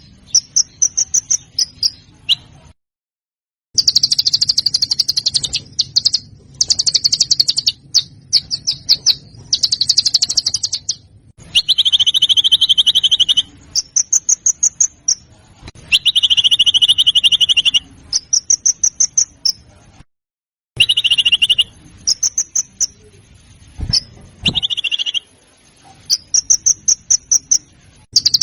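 Small songbirds giving rapid series of sharp, harsh chip notes and buzzing trills in bursts, some higher and some lower-pitched, played as a birdsong training recording for caged songbirds. Twice the sound cuts off completely for a moment, about three seconds in and again past the twenty-second mark, where recordings are spliced.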